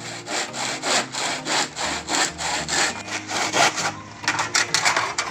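Hand saw cutting through hard coconut shell in steady back-and-forth strokes, about three a second, which turn shorter and quicker near the end.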